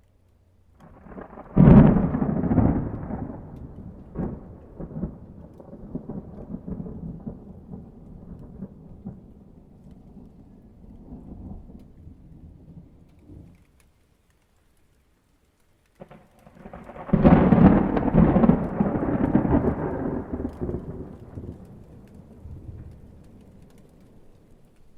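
Two thunderclaps, each a sudden crack about a second and a half in and again about seventeen seconds in, followed by a long rolling rumble that slowly fades; the first rumble cuts off into a short silence before the second clap.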